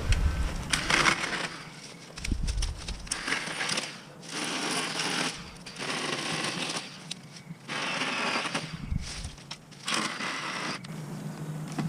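Ryobi 40-volt battery chainsaw cutting brush in repeated short bursts of about a second each, with brief pauses between cuts.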